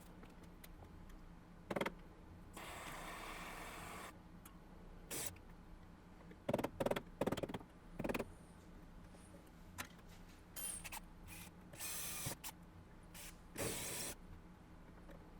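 Electric drill fitted with a spot-weld cutter bit, drilling out spot welds in a car's sheet-steel rear panel in short bursts: one longer run of about a second and a half early on, then several brief runs, with sharp clicks and knocks of the tool on the metal between them.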